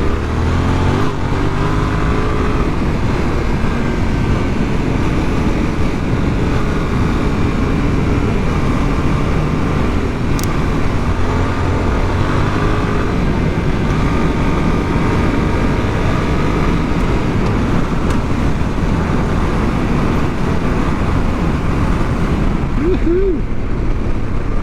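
Motorcycle engine running under way, its pitch rising and falling with the throttle, under heavy wind rush on the microphone.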